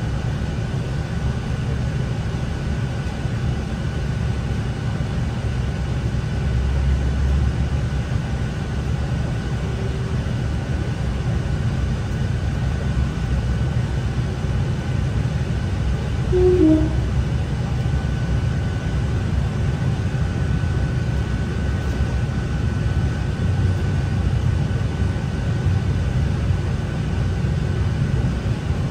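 NI Railways Class 3000 diesel multiple unit running along the line, heard from inside the carriage: a steady low rumble of engine and wheels on rail with a faint steady whine. A brief two-note tone sounds about halfway through.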